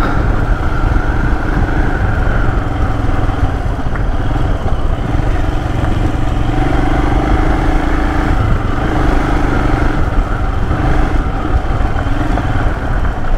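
Royal Enfield Himalayan's 411 cc single-cylinder engine running steadily as the bike is ridden along a dirt trail, heard from the rider's seat, with a heavy low rumble.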